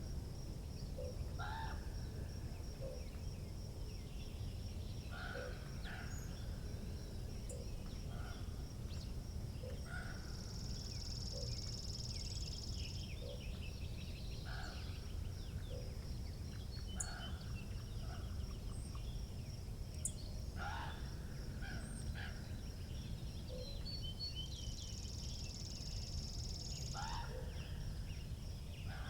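Wind rumbling on the microphone, with birds calling again and again in the distance. A steady high pulsing trill runs throughout and grows louder twice.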